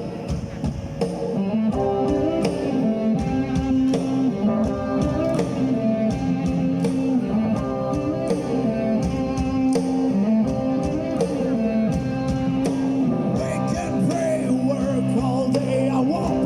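Live punk rock band playing the instrumental intro of a song: a repeating guitar melody over a steady drum beat.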